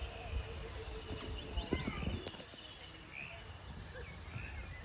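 Outdoor animal sounds: a short, high, buzzy call repeating evenly about every second and a quarter, with scattered chirping calls and a low rumble underneath.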